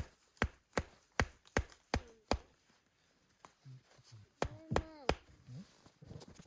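Repeated sharp chopping strikes, about two and a half a second for a couple of seconds, then a short pause and a few more strikes.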